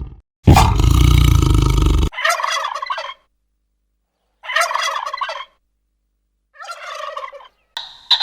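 A large animal's loud, deep roar that cuts off about two seconds in. Then a domestic fowl calls three times, each a rapid rattling call about a second long, with two short calls near the end.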